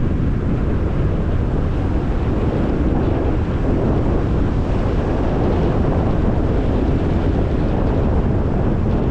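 A car driving at a steady speed: continuous road noise from the tyres with wind rush over the microphone, even and unbroken.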